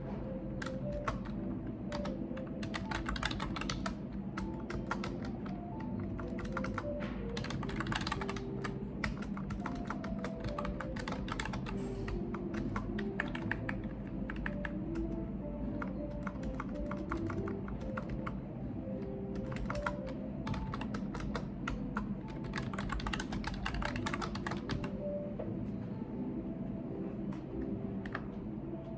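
Typing on a computer keyboard, the keystrokes coming in quick bursts with short pauses between them, over background music.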